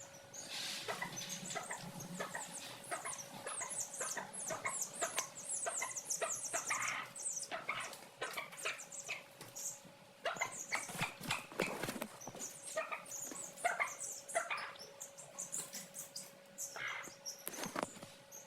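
Chicks peeping: many short, very high, falling peeps in quick runs, with scattered clicks and taps among them.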